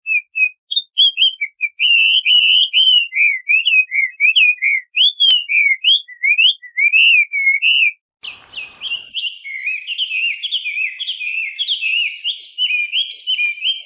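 Chinese hwamei (画眉) singing a loud, fast, varied song of sliding whistled notes. About eight seconds in the song breaks off with a short burst of noise, then resumes as a denser, quicker run of repeated phrases.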